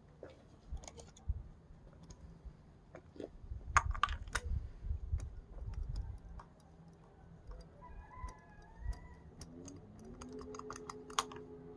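Scattered light clicks and taps with a few dull knocks, busiest about four seconds in and again near the end, where faint steady tones also come in.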